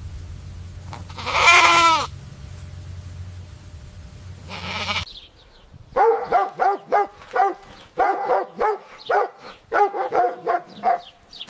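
Farm animal bleating: one long loud bleat that falls in pitch, then a quick run of short calls, about two or three a second.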